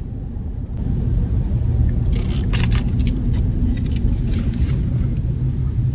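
Steady low road and engine rumble heard inside the cabin of a moving 4x4 truck, with light rattles and jingling clicks about two to five seconds in.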